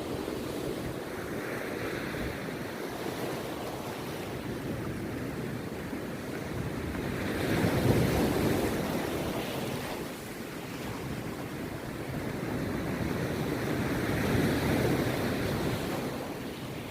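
Rough sea surf breaking on a beach: a continuous wash of waves with slow swells as each wave crashes, the loudest about halfway through and another near the end.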